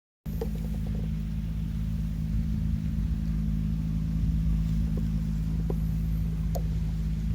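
An engine running steadily at a constant pitch, a low hum that comes in abruptly a moment after the start, with a few faint ticks over it.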